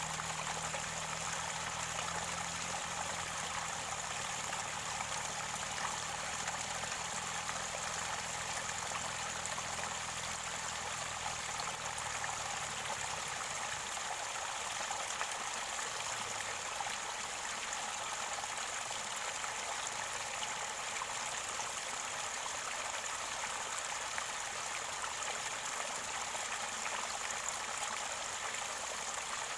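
Mountain stream water running and gurgling steadily near its spring source. A faint low hum underneath fades out about twelve seconds in.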